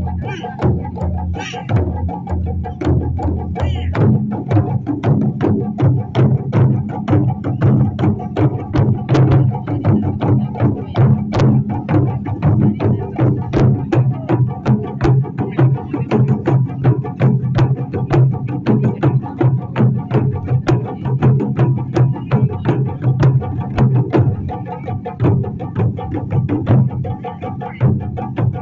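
Ensemble of Japanese taiko drums played in a fast, continuous rhythm of several sharp strikes a second over a deep, ringing drum tone.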